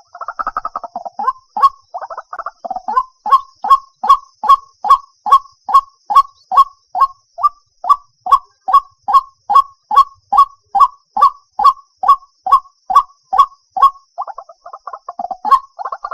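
White-breasted waterhen calling: a jumbled chatter of croaking notes, then a long, even series of short repeated notes at about two a second, breaking back into chatter near the end.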